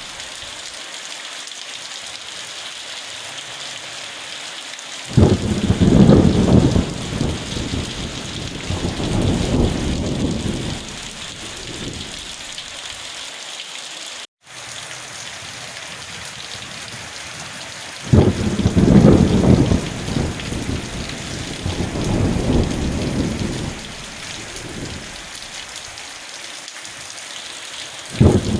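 Steady heavy rain hissing, with thunder rumbling three times: about five seconds in, about eighteen seconds in, and again right at the end. Each rumble lasts several seconds and swells and fades. The sound cuts out for an instant near the middle.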